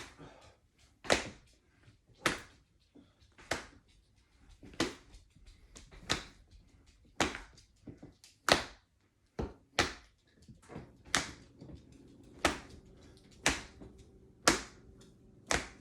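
Open-hand slaps on the buttocks, one sharp smack about every second and a quarter in a steady rhythm.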